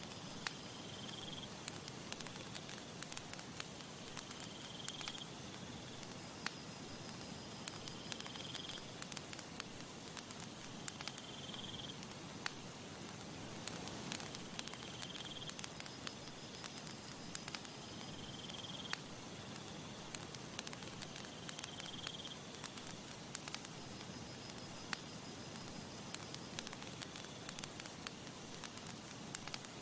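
Wood campfire crackling steadily, with frequent sharp pops and snaps over a soft hiss of burning. A short faint high call, like an insect's chirp, repeats about every three and a half seconds in the background.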